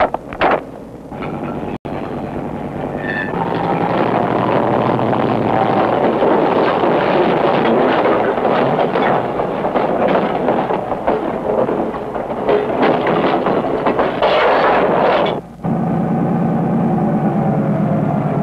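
Freight cars rolling through a rail yard, clattering and clanking over the rails and switches. After a short break near the end, a steadier diesel locomotive engine drone takes over.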